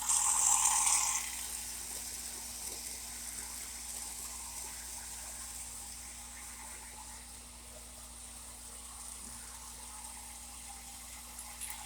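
O gauge model steam turbine locomotive pulling passenger cars on the track: a steady hissing run of wheels and motor over a faint electrical hum. It is louder for about the first second, then carries on evenly.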